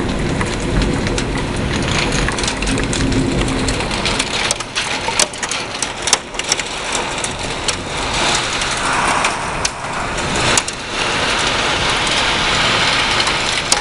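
Heavy rain pouring in a severe thunderstorm. A low rumble of thunder dies away in the first few seconds, and scattered sharp taps strike a surface in the second half.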